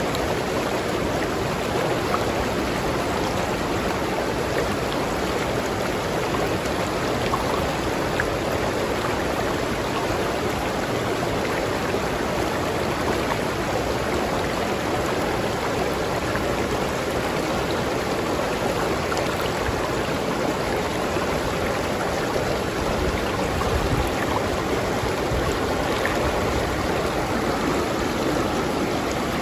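River water flowing steadily over rocks, a continuous rushing and babbling of stream current.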